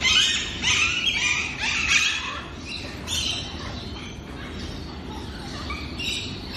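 Several birds calling at once in short, overlapping chirps and squawks. The calls are busiest in the first three seconds and thin out after that, over a steady low rumble.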